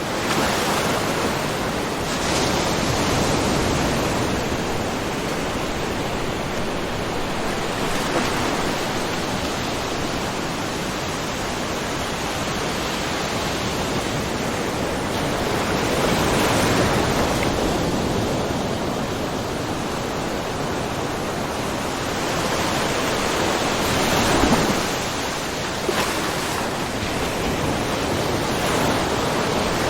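Small ocean waves splashing lightly along a shore, a steady wash with gentle swells as waves break, the strongest about halfway through and again near 25 seconds in.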